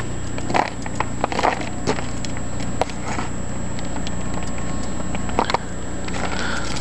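Footsteps crunching on ice-glazed ground and debris after an ice storm, a run of irregular crackles and crunches over a steady low hum.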